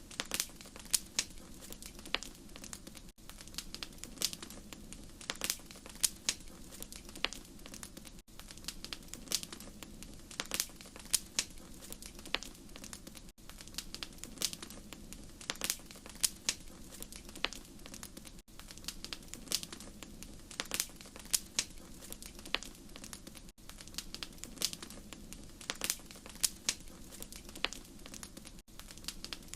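Wood fire crackling, with many irregular sharp pops and snaps over a steady low hiss of burning. The sound briefly drops out about every five seconds.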